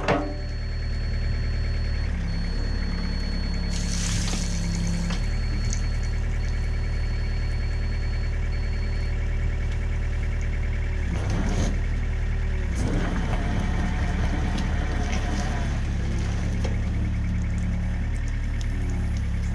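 A mini excavator's diesel engine running steadily at idle, with a few short metallic clanks.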